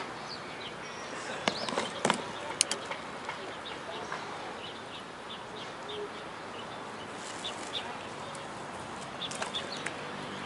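Birds chirping in short, scattered calls over a steady background hiss, with a few sharp clicks about two seconds in.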